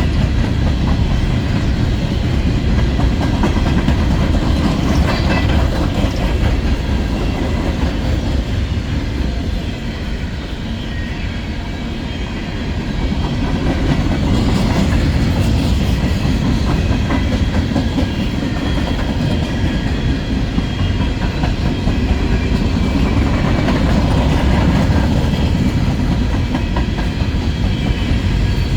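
Freight train of empty coal gondolas rolling past steadily, wheels clacking over the rail joints.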